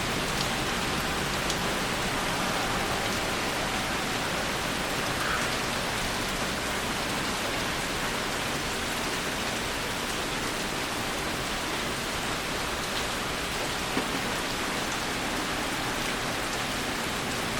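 Heavy rain falling steadily in a storm: an even, unbroken hiss of rain.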